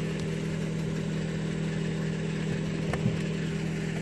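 The 2011 Subaru Outback's 2.5-litre boxer engine idling steadily, with a single light click about three seconds in.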